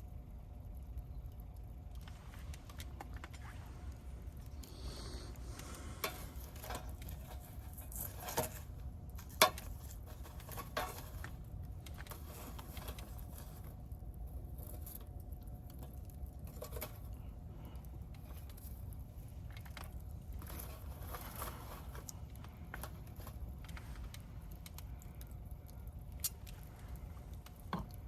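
Wood campfire burning, with a low steady rumble and irregular crackles and pops, the loudest snap about nine seconds in.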